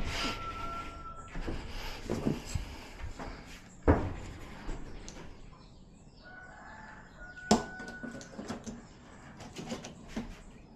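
Sharp clicks and knocks of TV casing and panel parts being pressed and fitted together by hand, with two louder knocks about four and seven and a half seconds in. A faint, thin, high held tone sounds at the start and again near the middle.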